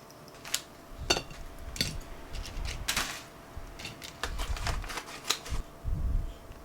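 A run of irregular light clicks and clatters, like small objects being handled and set down, with a few soft thumps among them.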